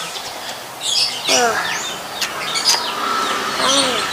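Small birds chirping in short, repeated calls, with a couple of brief voice-like sounds about a second and a half in and near the end.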